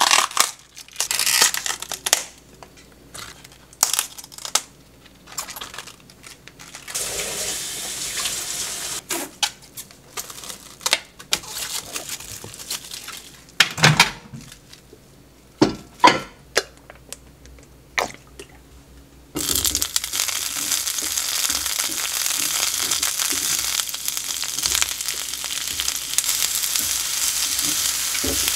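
Crisp cabbage leaves crinkling and tearing as they are peeled from the head, then scattered knocks and clicks. About two-thirds of the way in, a steady sizzle starts suddenly as sliced mushrooms and asparagus fry in a hot square pan and are stirred with chopsticks.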